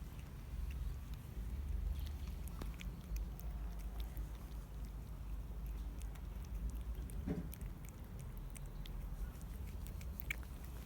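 Cat chewing food, with scattered small crunching clicks over a steady low rumble.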